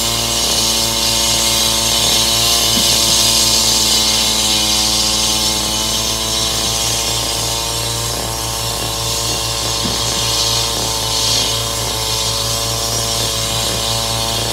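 A machine's motor running steadily at an unchanging pitch, with a strong hiss above it.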